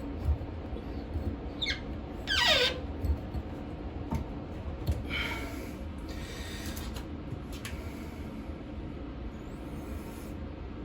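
Toilet water-supply shut-off valve being turned by hand, with a short squeak and then a louder squeak that falls steeply in pitch a couple of seconds in. Softer hissing scrapes follow near the middle.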